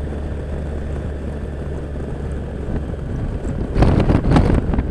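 Motorcycle engine and road noise while riding at a steady cruise, a low even drone. About four seconds in, gusty wind buffets the microphone loudly.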